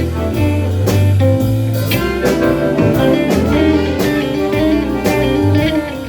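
Blues band playing an instrumental passage: guitar notes over a bass line and drums, with no singing.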